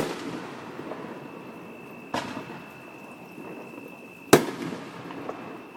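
Fireworks bursting: a bang right at the start, another about two seconds in and the loudest about four seconds in, each trailing off into a rolling echo.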